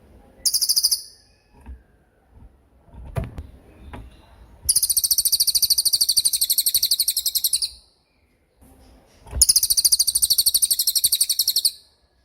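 Cililin songbird singing its rapid-fire 'tembakan' song: very high, fast-pulsed trills, one short burst near the start, then two long trills of about three seconds each. A few faint knocks fall between the trills.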